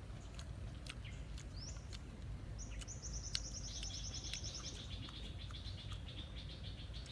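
A small bird singing: a short rising chirp, then a fast, high trill of rapidly repeated notes and a lower trill that runs on for a few seconds, over a steady low background rumble.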